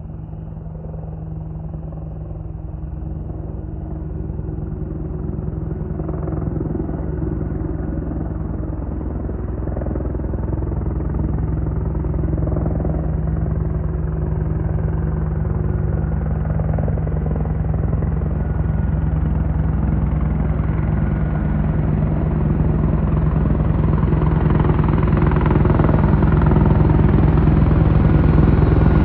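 Boeing AH-64E Apache Guardian attack helicopter approaching, its steady rotor and engine drone growing louder throughout as more of its high whine comes through near the end.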